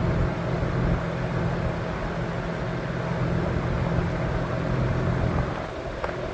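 Air-conditioning condensing unit running, a steady mechanical hum of compressor and fan; the deepest part of the hum drops away about five and a half seconds in.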